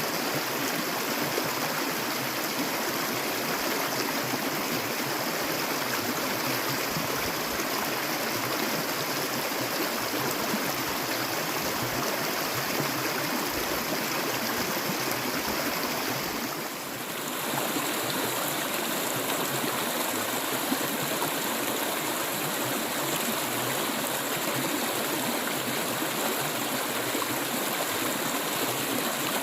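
Stream water flowing steadily over its bed, a continuous rushing babble. About seventeen seconds in, the sound dips briefly and then carries on with a slightly different character.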